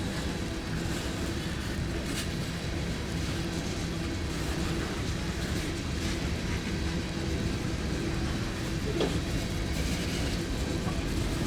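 Freight train rolling past: a steady rumble with a low hum and two sharp clicks, one about two seconds in and one late on.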